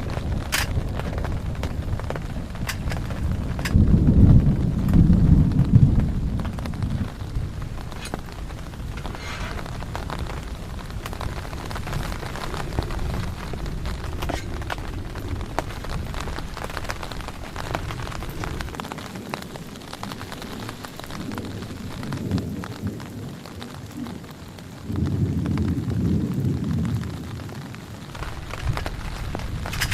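Steady heavy rain with scattered sharp drop hits, and thunder rumbling twice, loudest about four seconds in and again near the end.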